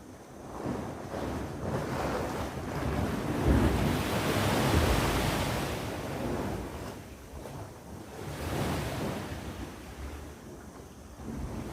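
Sea waves breaking and washing on the shore: one big swell peaks about four to five seconds in and drains away, a smaller one follows around nine seconds, and another starts building near the end. A low rumble of wind buffets the microphone underneath.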